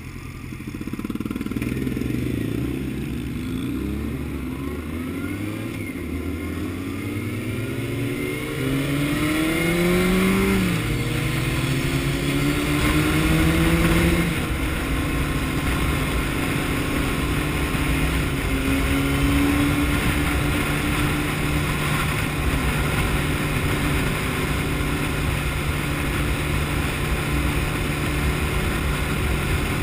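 Honda CBR600F inline-four engine pulling away from a standstill, revving up and shifting through several gears, then holding a steady cruising speed. A rushing wind noise grows as the speed builds.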